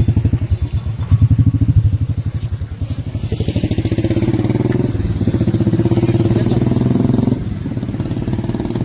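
Motorcycle engine running close by with a rapid, even throb, its pitch rising a little a few seconds in and the level dropping slightly near the end.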